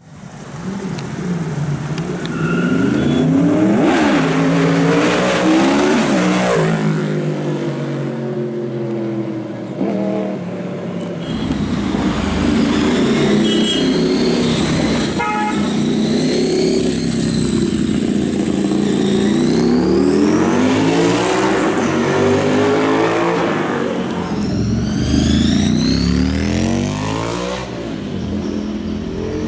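Superbike engines revving hard, their pitch sweeping up and down again and again as the throttle is opened and closed.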